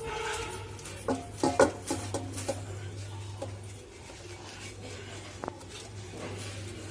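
Metal compressor parts knocking and clinking against each other as they are handled, with a cluster of ringing knocks between about one and two and a half seconds in and a few lighter clicks later, over a steady low hum.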